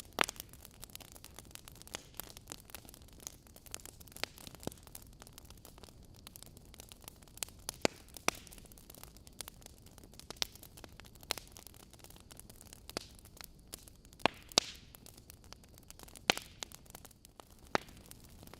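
Wood fire burning in a fireplace: burning logs crackling and popping at irregular intervals over a soft steady hiss, with a few sharper pops standing out.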